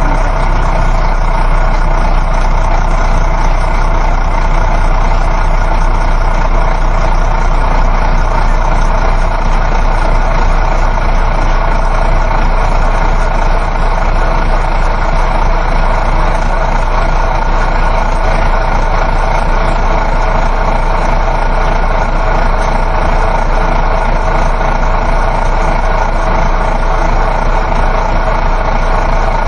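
Inside a moving coach bus: the engine's steady drone mixed with road and tyre noise.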